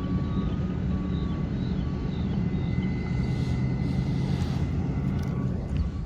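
Diesel-electric freight locomotives running with a steady low engine rumble as the train moves off, with faint short beeps now and then and a brief hiss about halfway through.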